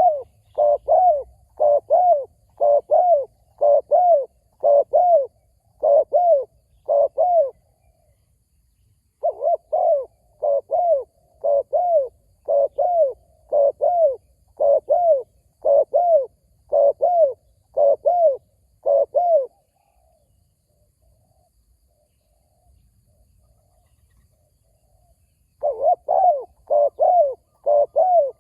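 Spotted dove cooing in long runs of short paired notes, about two notes a second. There is a brief pause about a quarter of the way in and a silence of about six seconds past the middle, then the cooing starts again near the end.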